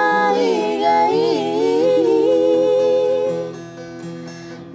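A singer holds long, wavering notes of a Bajawa regional song over guitar accompaniment. The music drops back about three and a half seconds in, between phrases.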